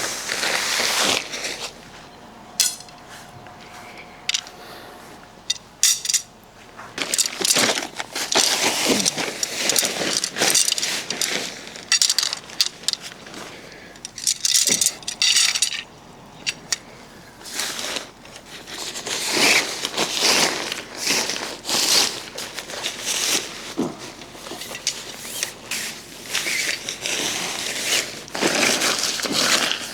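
Irregular clinks, clatter and crinkling of objects being handled, in short uneven bursts.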